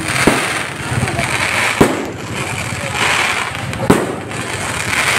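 Aerial fireworks bursting overhead: three sharp bangs, about a second and a half to two seconds apart, with crackling and hissing from the burning stars between them.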